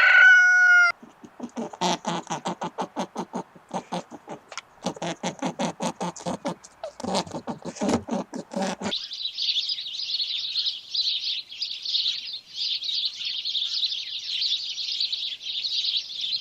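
Animal calls. A rooster's crow ends about a second in, then come rapid trains of clicking calls in bursts, giving way at about the halfway point to a steady, dense, high-pitched chirping chorus.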